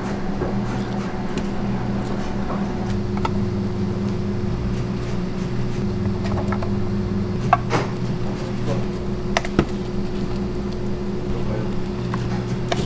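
Steady mechanical hum of kitchen machinery, with a few sharp clinks about two thirds of the way through.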